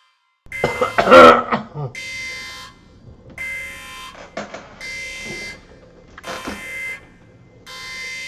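A repeating electronic buzzer-like beep, about one every second and a half, each beep lasting under a second. A loud short vocal sound like a throat-clear comes about a second in.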